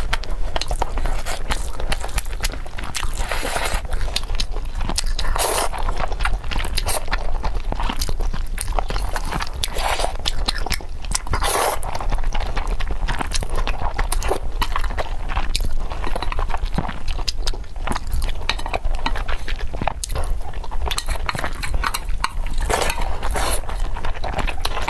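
Close-up eating sounds: a person chewing and biting food, with many small irregular crunchy clicks and wet mouth noises, over a steady low hum.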